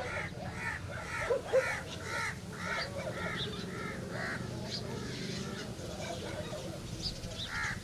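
A crow cawing over and over, about two caws a second for roughly the first half, then one more caw near the end.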